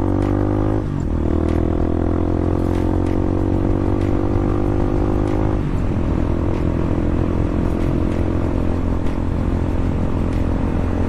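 Bashan 250 dirt bike engine pulling under acceleration, its pitch climbing steadily. It shifts gear about a second in and again just before the middle, each time dropping in pitch, then runs steadier.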